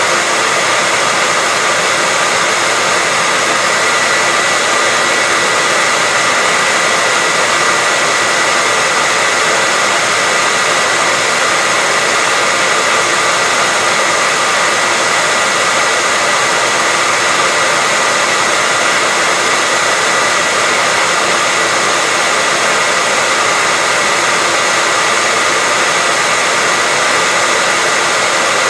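Hairdryer running steadily: an even rushing of air with a steady high whine from its motor, unchanging throughout.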